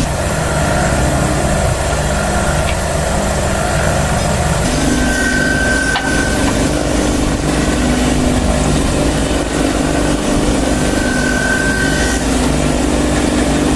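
Woodworking machine running steadily, its motor hum mixed with the sound of wood being cut and rubbed.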